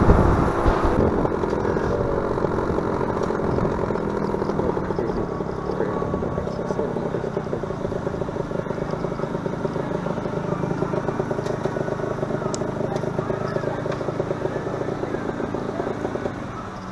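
Motorcycle engine running at a steady pitch. Louder wind rush at the start dies away about a second in, and the sound fades out near the end.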